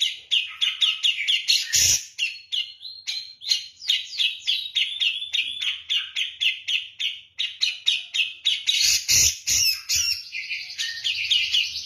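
Cucak jenggot (grey-cheeked bulbul) singing persistently: a fast, unbroken run of short chattering notes, several a second, with a few low thumps about two seconds in and again around nine to ten seconds.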